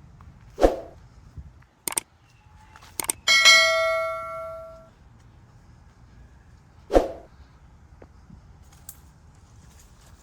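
A single metallic clang about three seconds in that rings on for over a second with several bell-like tones, preceded by a couple of sharp clicks. Two dull thumps, one near the start and one about seven seconds in.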